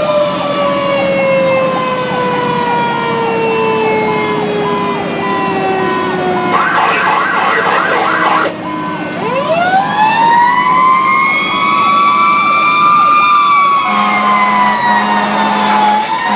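Fire engine siren on a call: a long wail slowly winding down in pitch, a brief rapid warble in the middle, then winding back up and holding high. A steady low horn-like tone joins near the end.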